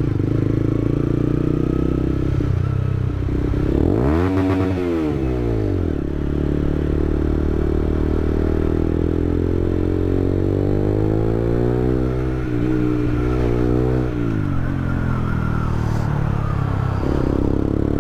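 Honda CBR125's single-cylinder four-stroke engine running under way, its pitch rising and falling with the throttle about four seconds in and again around the twelve-to-fourteen-second mark.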